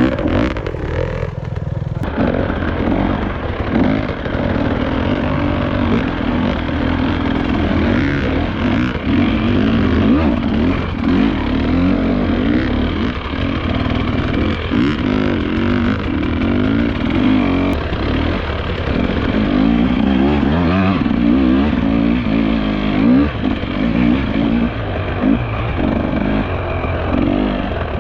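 Dirt bike engine revving up and down as it is ridden along a trail.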